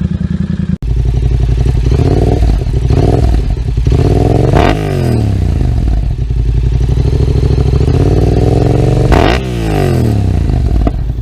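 Yamaha MT-07's parallel-twin engine through an aftermarket exhaust, revving while stationary: held at raised revs with the note wavering, and two sharp blips, near the middle and near the end, where the pitch shoots up and drops back. The sound cuts off abruptly about a second in and starts again louder.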